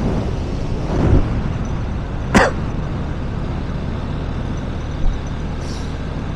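Steady vehicle engine and road noise from driving, with a short sharp sound about two and a half seconds in.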